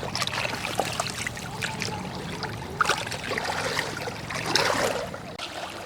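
Shallow water splashing and trickling in many small irregular splashes, over a low steady hum.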